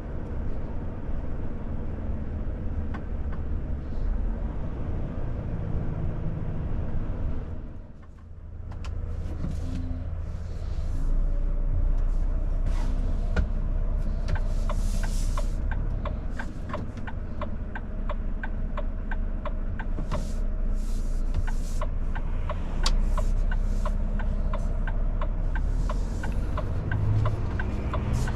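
Volvo FH truck driving, its engine and road noise making a steady low rumble that drops away briefly about eight seconds in. In the second half a steady ticking of sharp clicks, roughly two a second, runs over the rumble.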